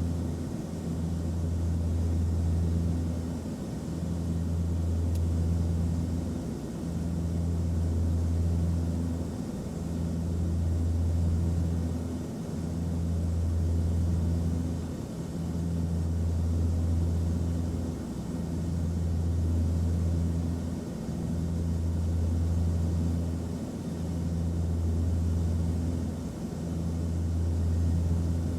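Airliner cabin noise in flight: a steady deep rumble with a constant hiss above it and faint steady tones, dipping briefly about every three seconds.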